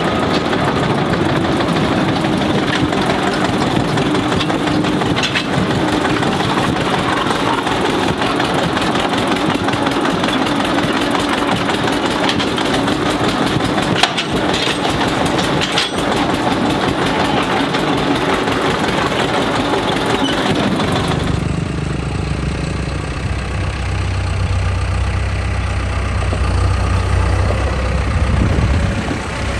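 Eicher 242 tractor's diesel engine running steadily. About two-thirds of the way in, the sound changes abruptly to a deeper engine sound.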